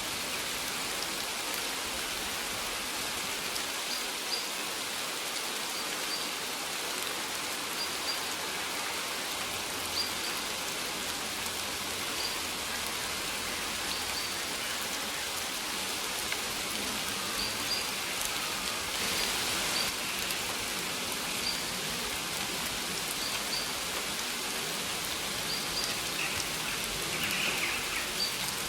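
Steady rain falling, a dense even hiss. Over it a bird gives short, high chirps every second or two, with a louder burst of calls near the end.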